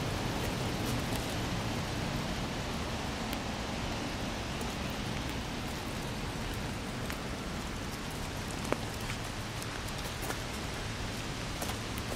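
Steady rain falling, a continuous hiss with scattered ticks of drops striking nearby, and one sharper tick about two-thirds of the way in.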